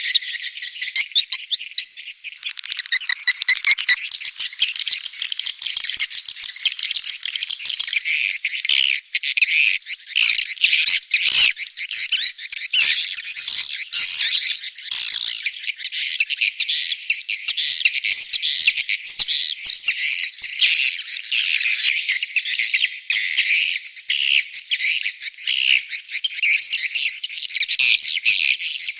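Edible-nest swiftlets calling: a dense, unbroken chatter of rapid, rattling chirps. It is the 'birahi beranak' mating and breeding call played in swiftlet houses to lure the birds to roost and nest.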